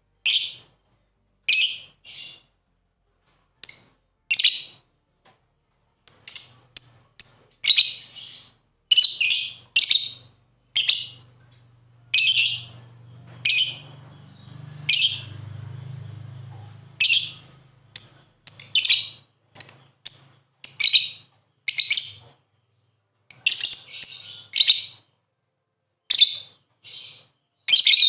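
Lovebirds giving short, shrill chirps at irregular intervals, sometimes several in quick succession.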